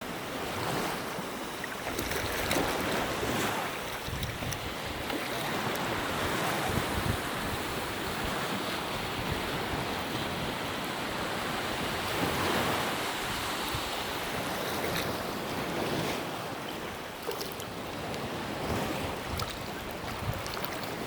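Ocean surf breaking and washing ashore in slow swells, with wind buffeting the microphone.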